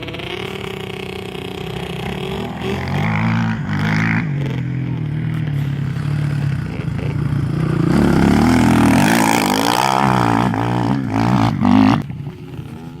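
Motocross dirt bike engine revving up and down repeatedly as the rider works through the throttle and gears. It grows louder toward the end, then drops away sharply.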